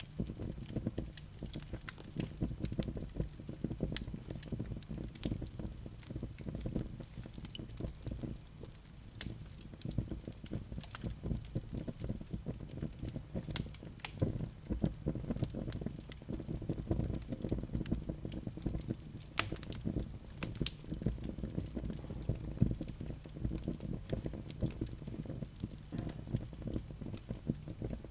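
Wood fire burning in a fireplace: a steady low rumble of flames with a constant scatter of small crackles and pops, a few of them sharper and louder.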